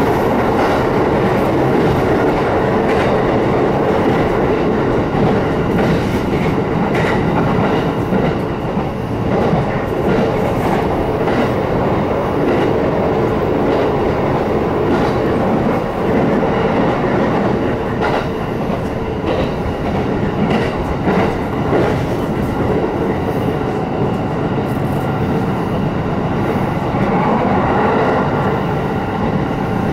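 Electric passenger train running along the line, heard from inside the carriage: a steady rumble of wheels on rail with a faint even hum and scattered clicks of the wheels over rail joints.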